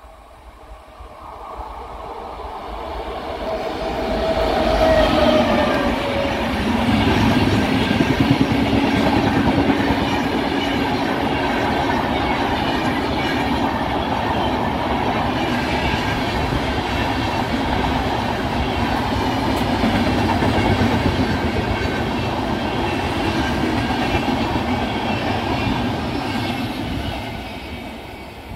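Electric-hauled passenger express train passing close at speed: a rumble that builds as it approaches, then the steady run of coach wheels clattering over the rails, fading near the end.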